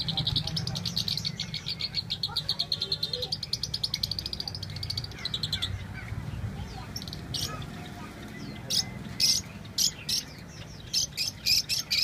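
Caged small pet birds chirping: a rapid, even trill for about the first six seconds, then short, sharp chirps, singly and in quick runs toward the end.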